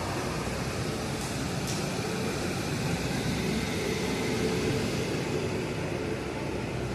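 Passenger train running, a steady even noise with no clear rhythm.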